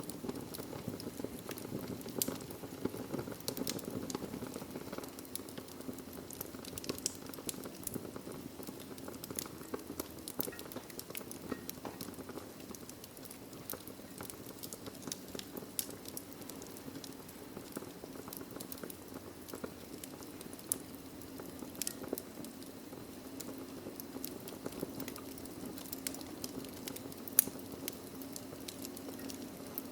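Wood logs burning in a fireplace, crackling with frequent small pops over a steady low rush, with one sharper pop near the end.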